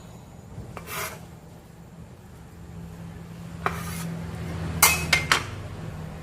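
Kitchen utensils and dishes clinking: a short scrape, then a single clink, then a quick run of three or four sharp clinks.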